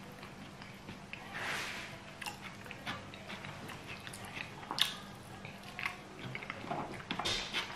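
Close-up mouth sounds of a man chewing fried sweet potato and scrambled egg eaten with his fingers: irregular wet clicks and smacks with short soft squelches as he picks up food and bites.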